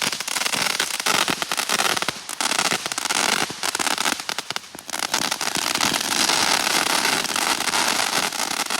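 Consumer firework going off on the ground with a continuous hiss and a dense, rapid stream of small crackling pops, dipping briefly a few times.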